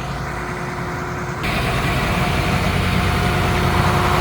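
A heavy engine running steadily, which turns abruptly louder and rougher about a second and a half in.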